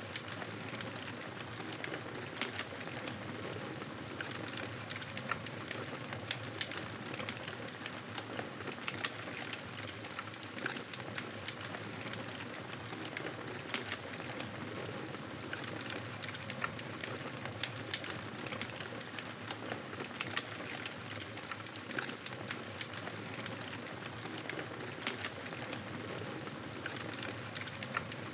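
Campfire burning: a steady hiss with frequent, irregular sharp crackles and pops.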